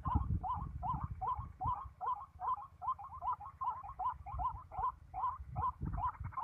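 White-breasted waterhen (ruak-ruak) calling monotonously: a short rising note repeated evenly about two and a half times a second, over a low rumble.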